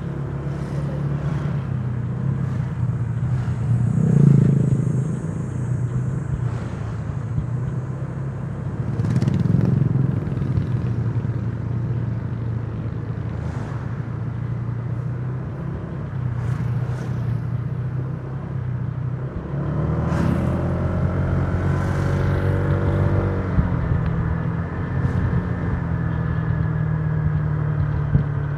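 Honda Giorno 125 scooter's engine running under way, with road and wind noise. It swells louder about four seconds and ten seconds in, and the engine pitch shifts up and down about twenty seconds in.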